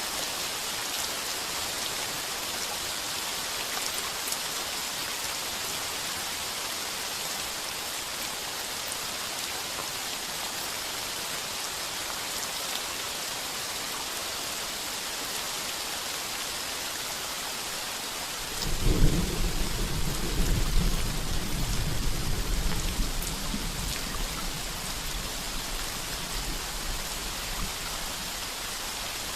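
Heavy rain drumming steadily on a tin roof. About two-thirds of the way through, a thunderclap breaks in as a deep rumble, loudest in its first few seconds, then rolls away over several seconds.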